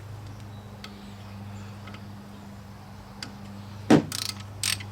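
A low steady hum with a few faint clicks, then a loud sharp metallic clank near the end. Short bursts of ratchet clicking follow as a hand ratchet turns a brake pad retaining pin.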